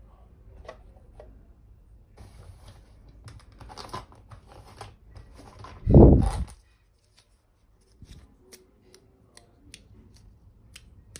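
Small plastic toy pieces and packaging being handled: rustling and light clicks, a loud dull thump about six seconds in, then a brief hush and a few sharp separate clicks.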